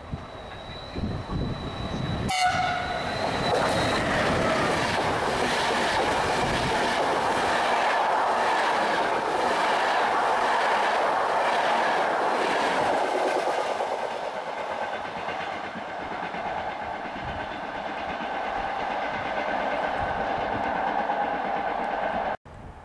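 Passenger train sounding its horn briefly about two seconds in, then passing through the station at speed: a long run of coaches with wheels clattering over the rail joints, easing off in the last few seconds.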